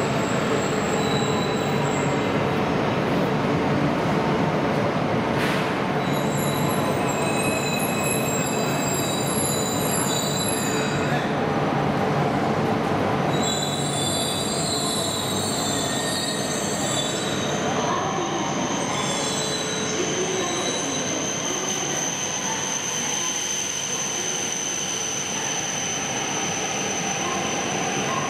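E4 series double-deck Shinkansen pulling in and braking to a stop, with a steady rumble and many wavering high squeals. In the second half the squeals give way to one steady high whine as the train comes to rest.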